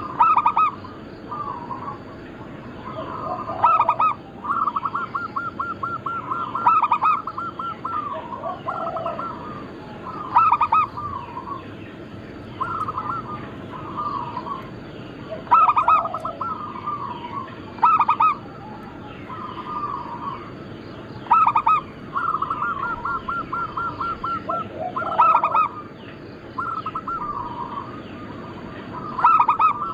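Several zebra doves (perkutut) cooing, one phrase of clipped notes after another, the loudest every few seconds with fainter birds answering between. Some phrases end in a fast rolling trill. A faint steady high tone runs underneath.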